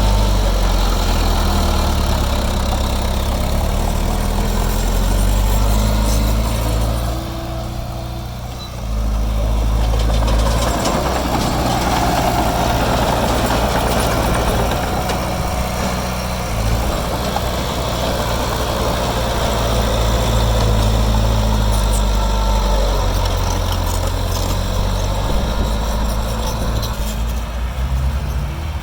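Diesel engine of heavy earthmoving machinery running steadily with a deep low hum, easing off briefly about seven seconds in and then picking up again.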